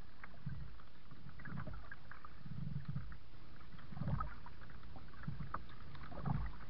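A kayak being paddled: water splashes and paddle strokes come at an irregular pace of about one a second, with small drips and light knocks in between.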